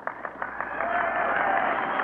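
A large crowd applauding, building up over the first second and then holding steady, heard on an old narrow-band recording.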